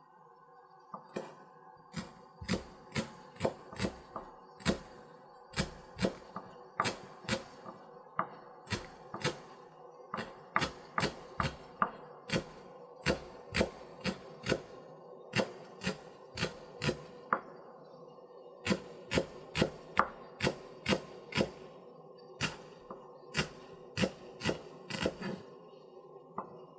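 Knife chopping on a wooden cutting board, sharp separate chops at about two a second, with a couple of short pauses.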